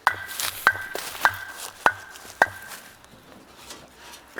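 Five evenly spaced hammer-like strikes on metal, a little under two a second, each ringing briefly with a clear tone.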